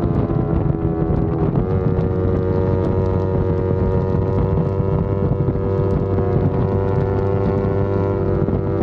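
Yamaha R25's 250 cc parallel-twin engine pulling steadily under riding load. Its note rises a little about a second and a half in, then holds a nearly constant pitch, with wind rushing over the microphone.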